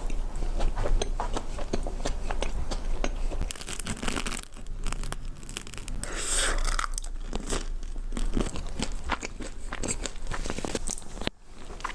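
Close-miked eating: crunchy bites and chewing, with many small crackles and clicks throughout.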